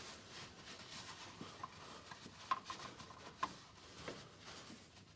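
Faint rubbing and a few light taps and clicks of a cloth being wiped around the brake fluid reservoir to clear off spilled fluid and rinse water.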